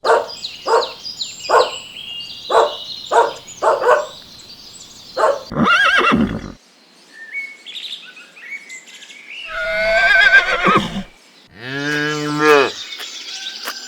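A string of farm animal calls: a fast run of about eight short repeated calls with birds chirping over them, then separate calls, including a wavering, whinny-like call about ten seconds in and a deep drawn-out call near the end.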